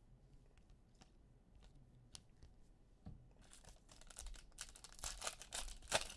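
Trading card pack wrapper being handled and torn open: a few faint clicks at first, then from about three and a half seconds a rising run of crinkling and tearing.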